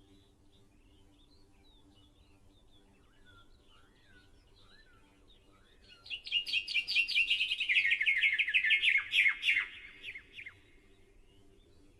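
Birds calling: soft scattered chirps, then about halfway through a loud, rapid trill of quickly repeated notes that slides down in pitch and stops after about four seconds.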